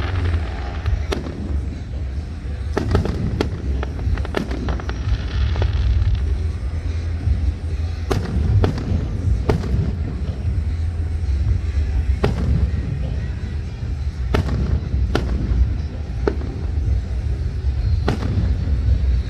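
Fireworks going off: a string of sharp bangs and cracks at irregular intervals, well over a dozen, over a steady low rumble.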